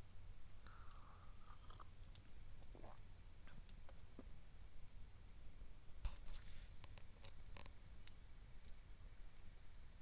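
Wood campfire crackling faintly: scattered sharp pops and snaps, with a quick cluster of cracks about six seconds in, over a steady low rumble.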